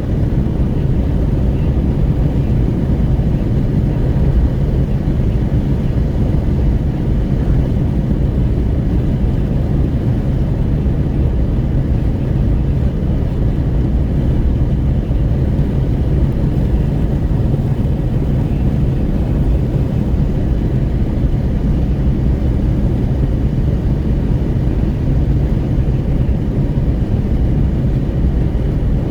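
Wind rushing and buffeting at an open window of a Renault Kwid, heard inside the cabin, with the road noise of the car cruising at highway speed. The low, steady rush holds with no change.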